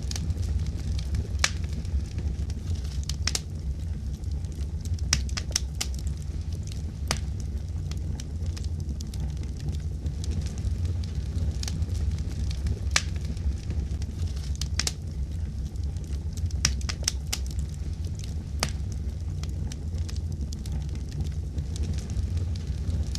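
Wood fire in a fireplace crackling: irregular sharp pops and snaps, a few every second or two, over a steady low rumble of the burning fire.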